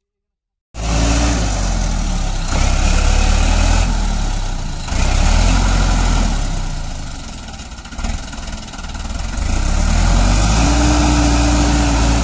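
Heavy diesel engine of a tractor or backhoe working, starting abruptly under a second in and rising and easing several times as the load changes. A steady higher tone joins near the end.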